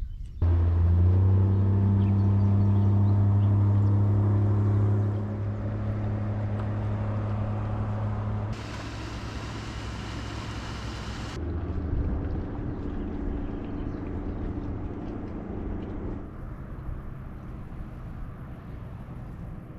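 A motor engine running with a steady hum. It changes abruptly about eight and a half seconds in and again a few seconds later, with a burst of hiss in between.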